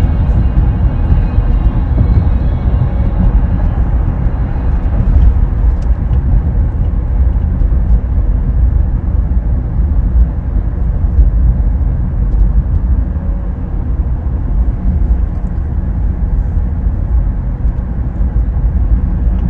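Steady road and tyre rumble inside the cabin of a moving Tesla electric car, with no engine note.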